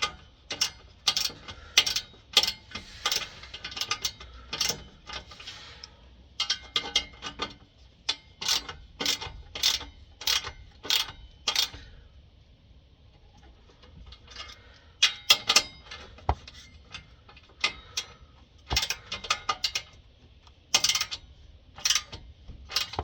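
Hand ratchet wrench clicking in short bursts of strokes, with a pause about twelve seconds in.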